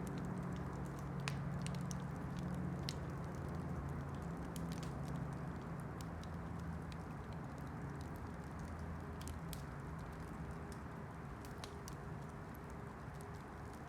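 Campfire burning, its wood giving off scattered sharp crackles and pops at irregular intervals, over a low steady rumble.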